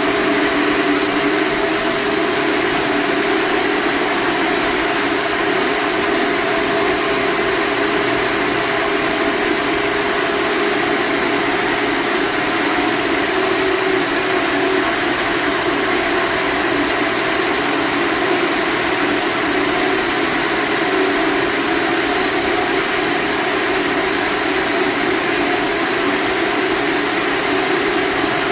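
A blower motor running steadily at one pitch, a constant loud hum over a broad hiss.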